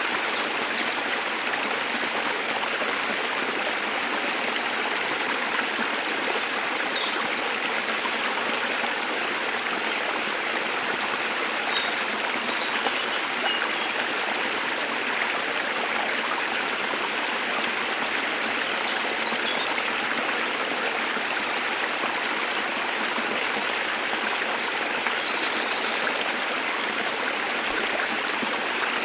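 A waterfall's steady rush of falling water, with a few faint, short bird chirps now and then above it.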